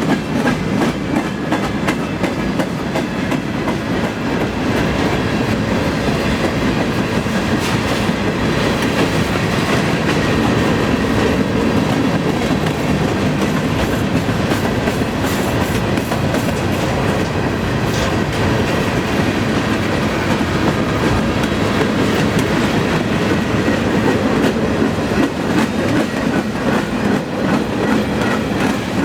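Freight cars of a long CN freight train rolling past, a steady rumble with wheels clicking over rail joints and the odd faint squeal.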